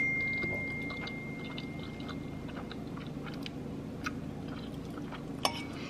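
A person chewing a mouthful of soft ramen noodles, with small wet mouth clicks scattered throughout. A faint ringing tone begins at the start and fades away over a couple of seconds.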